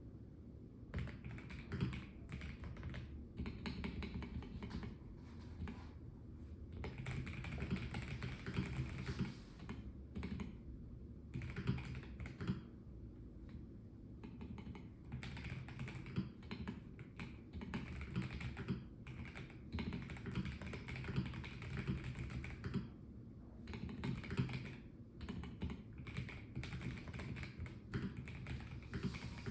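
Typing on a Melgeek Mojo84 Plastic mechanical keyboard: runs of rapid key clicks broken by short pauses, over a faint low hum.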